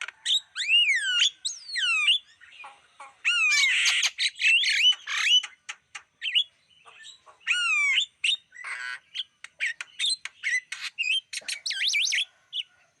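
Javan myna calling in a varied run of harsh squawks, sharp clicks and falling whistles.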